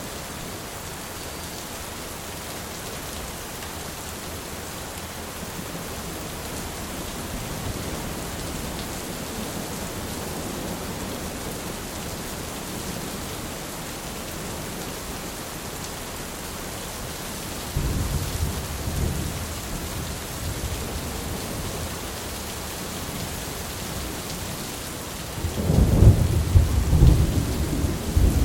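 Thunderstorm: steady heavy rain with thunder, a sudden rumble about two-thirds of the way in and a louder, rolling crack of thunder near the end.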